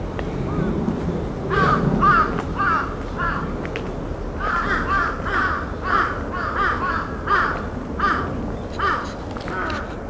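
Birds calling in a long run of short, repeated calls, about two a second, starting a second and a half in with a brief pause near the middle; the uploader takes them for earthquake-warning calls.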